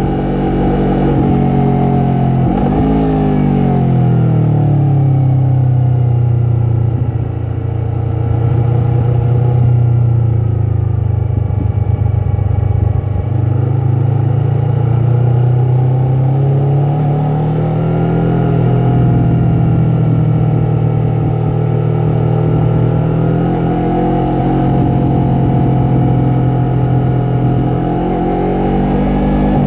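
Yamaha MT-03's parallel-twin engine and exhaust running under way, the revs falling a few seconds in, holding low and steady for several seconds, then rising again twice in the second half.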